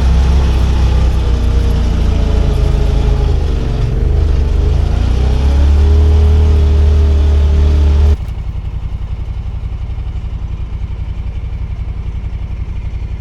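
Side-by-side UTV engine running under way, its pitch rising and falling with the throttle. About eight seconds in the sound drops abruptly to a quieter, steady, even pulsing run.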